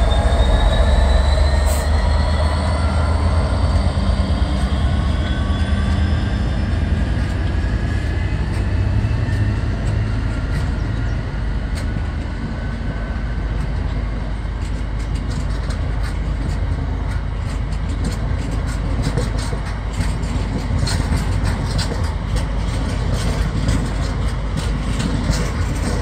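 Freightliner Class 66 diesel locomotive passing with its two-stroke V12 engine running, and high whining tones that fall slowly in pitch over the first several seconds. Then a long rake of open box wagons rolls by, a steady rumble with many wheel clicks over the rail joints.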